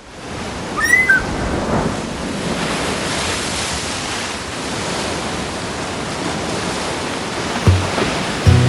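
Steady rushing outdoor noise, with a short high call about a second in. Music comes in near the end.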